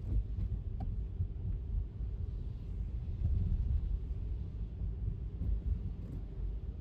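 A car driving on a wet city street: steady, low road rumble with a couple of faint ticks near the start.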